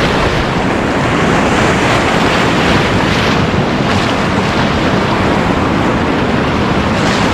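White-water river rapids rushing around a raft: a loud, steady wash of churning water, with wind buffeting the microphone.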